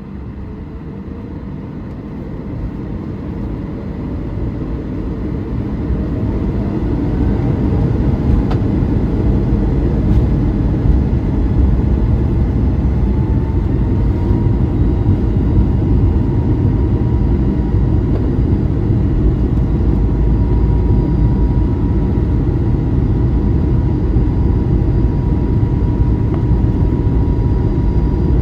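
Airbus A220-300's Pratt & Whitney PW1500G geared turbofan engines spooling up to takeoff power. A whine rises in pitch over about the first dozen seconds, then holds steady under a loud rumble that builds over the first eight seconds and stays loud as the jet accelerates down the runway.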